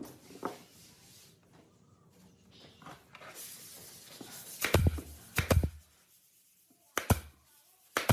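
Workshop handling sounds: a short rubbing hiss, then four sharp knocks, as of wood or tools being knocked or set down on a workbench.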